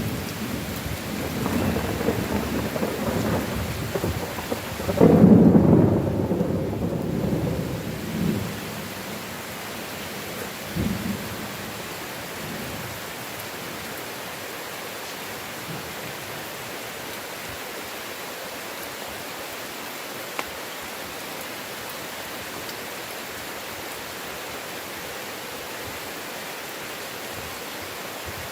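Thunderstorm: a long roll of thunder rumbling over steady rain, loudest about five seconds in and dying away by about nine seconds, with a short low rumble near eleven seconds. After that only the even hiss of heavy rain.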